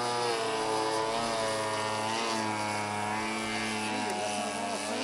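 Large-scale radio-controlled model airplane engine running, with a steady buzzing pitch that rises and falls gently.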